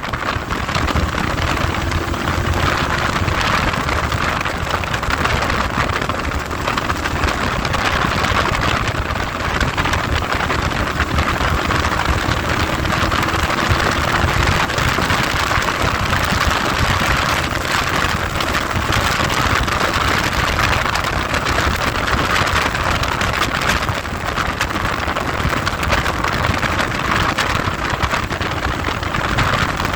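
Heavy wind rushing over the microphone on a moving vehicle, with faint engine pitch sliding underneath.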